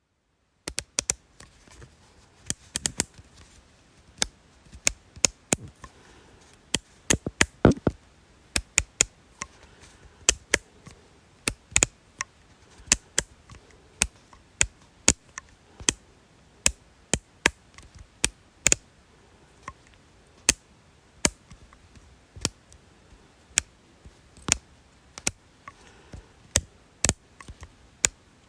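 A long series of sharp, crisp clicks: bunched and irregular at first, then settling into a fairly even pace of about three clicks every two seconds.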